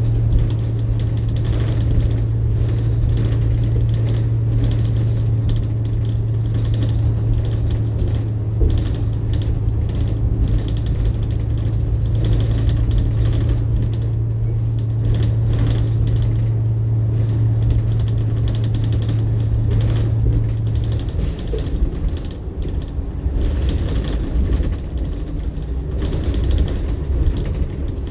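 New Flyer XN60 articulated bus running, its Cummins-Westport ISL-G natural-gas engine and drivetrain giving a steady low drone that drops away about three-quarters of the way through. Frequent rattles, clicks and creaks from the bus body ride over it.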